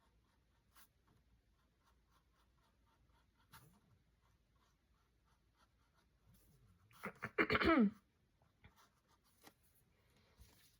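Faint, rapid scratching of a paintbrush stroking on canvas. About seven seconds in comes one short, loud vocal sound that falls in pitch.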